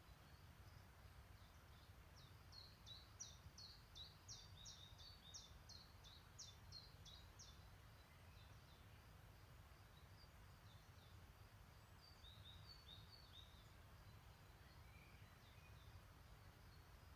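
Songbirds chirping faintly in the background, with a quick run of short, high notes from about two seconds in to about seven seconds and scattered calls after that, over a low, steady rumble.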